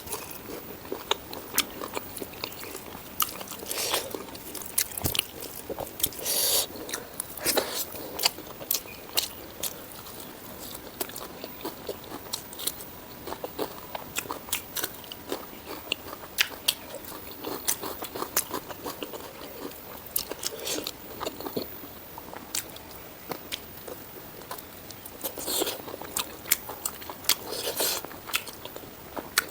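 A person eating spicy pork ribs and rice close to the microphone: biting and chewing, with a steady run of sharp crunchy clicks and a few longer, louder bites.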